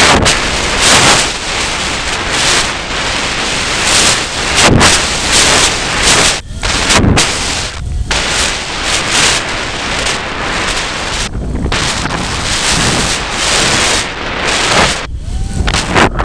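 Strong gusty wind buffeting the microphone, a loud rough rumble and roar that swells and drops with the gusts, with a few brief lulls.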